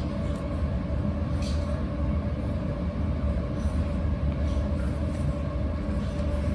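Steady low mechanical hum with a faint constant drone, with a couple of soft clicks or rustles.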